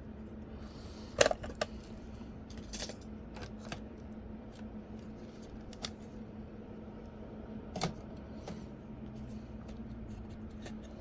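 Scattered sharp clicks and taps of small tools and parts being handled on a workbench, the loudest about a second in and another near eight seconds, over a steady low hum.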